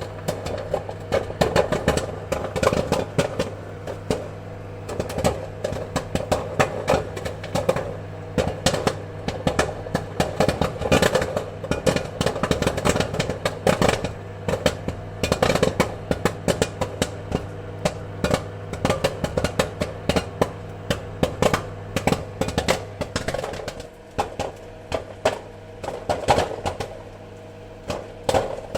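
Popcorn kernels popping in quick, irregular succession, many sharp pops a second, over a steady cooking-appliance hum.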